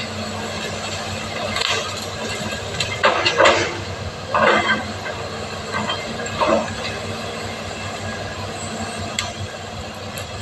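Excavator's diesel engine running steadily, with several short, louder noises from the machine at work between about two and seven seconds in.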